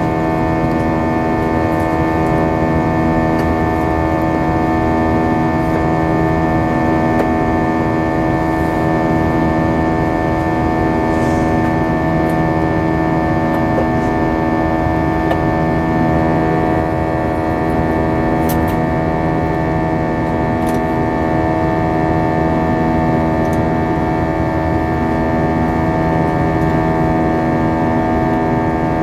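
Airbus A320 jet engines heard from inside the cabin in flight, a steady drone with many held tones over a rushing rumble.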